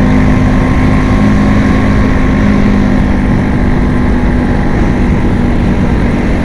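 Bajaj Chetak scooter's single-cylinder two-stroke engine running steadily while riding at an even speed.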